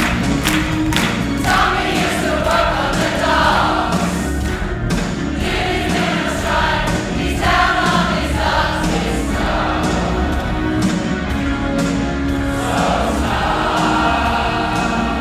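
Choir singing a song to a steady beat; the beat is clearest near the start and again near the end.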